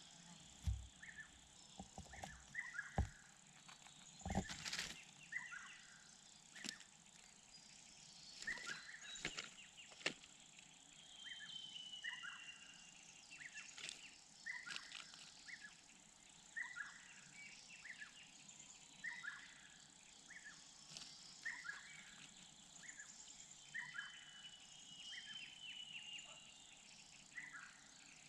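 Small birds calling in short chirps about once a second, with two longer whistled notes, over a steady high chirring of insects. A few sharp knocks sound in the first five seconds.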